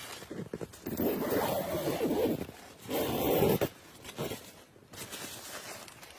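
Two long rasping scrapes, the first about a second in and the second shorter, followed by fainter scuffing.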